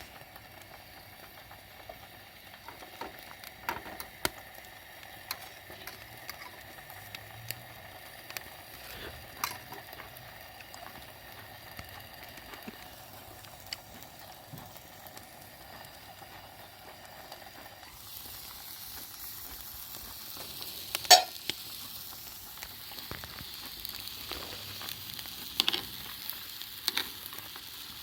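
Campfire crackling and hissing, with scattered sharp pops. A brighter hiss sets in about two-thirds of the way through, and the loudest pop comes soon after.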